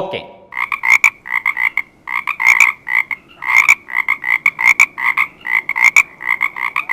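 Frogs croaking: a fast, continuous run of short, repeated croaks beginning about half a second in.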